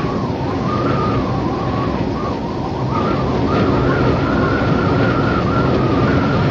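Wind ambience: a steady rushing with a thin whistling howl that wavers up and down in pitch.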